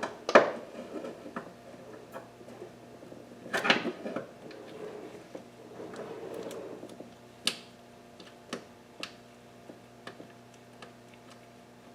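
Metal hand tools clanking and knocking: a sharp clank about half a second in, another just before four seconds, then a few lighter knocks and small ticks, over a faint steady hum.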